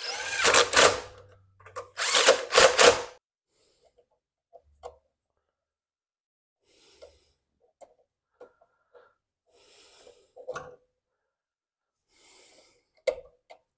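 Power drill run in two short bursts, its motor speeding up each time, in the first three seconds. After that come faint clicks and soft handling noises of parts.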